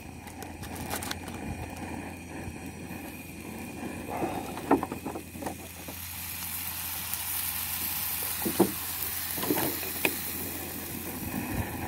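Chopped chili and shrimp paste (belacan) sizzling in a stainless steel frying pan over a portable butane stove, with scattered pops and crackles. The hiss grows stronger about halfway through.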